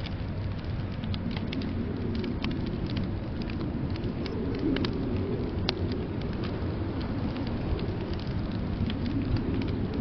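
Wood fire crackling in a fireplace: scattered, irregular sharp pops and snaps over a steady low rumble.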